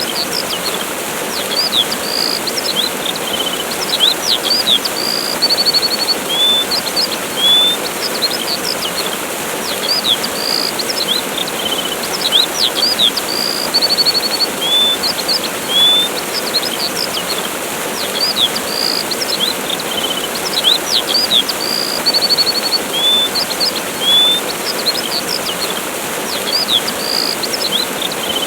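Steady rushing of a waterfall with small songbirds chirping and whistling over it in short high calls. The same run of chirps comes round again about every eight seconds.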